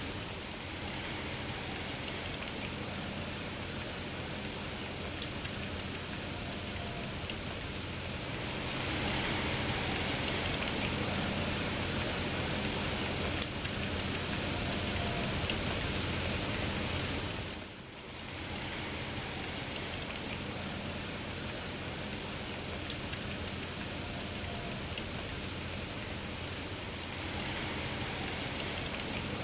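Steady rain falling, with three sharp ticks of single drops spread through it. It grows a little louder for several seconds in the middle, then dips briefly.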